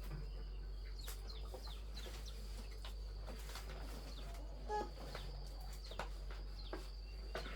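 Birds calling: many short falling chirps and one louder call about five seconds in, over a steady high-pitched hum.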